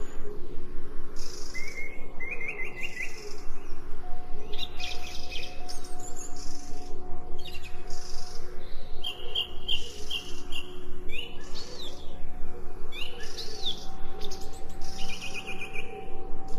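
Several small songbirds chirping: short rapid trills and quick upward-gliding whistles, over a steady low hum.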